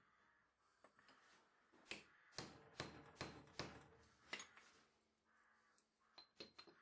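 Hammer taps on a brass drift bar, driving a bicycle bearing race home into a machined hub housing. About six sharp taps roughly half a second apart, then a few lighter, quicker taps near the end.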